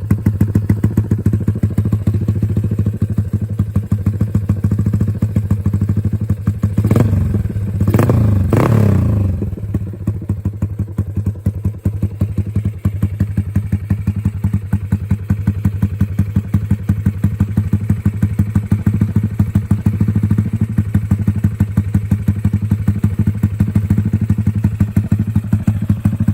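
Yamaha 135LC's single-cylinder four-stroke engine running through an AHM M3 SPR aftermarket exhaust with a stepped 28/30 mm header and short silencer, idling with a steady, even pulse. About seven seconds in, the throttle is blipped twice, the pitch rising and falling, before it settles back to idle.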